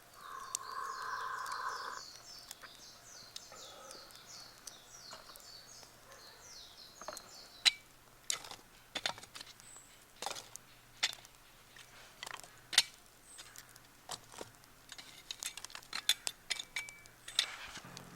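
Campfire crackling, with sharp scattered pops and snaps through most of it. A bird chirps in a fast repeating run over roughly the first seven seconds.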